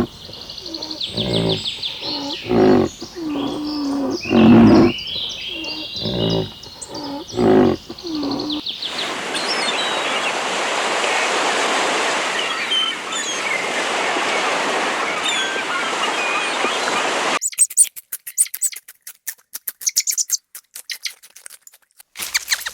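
Repeated animal calls for about eight seconds, then short bird chirps over a steady rushing hiss, then a run of rapid clicks near the end.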